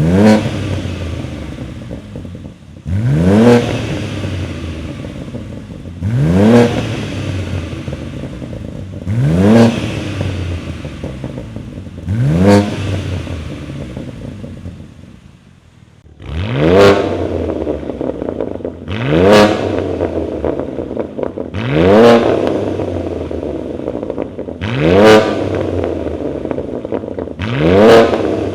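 BMW G87 M2's twin-turbo inline-six through a USUS titanium exhaust, revved in quick blips about every three seconds and dropping back to idle between them, about ten revs in all.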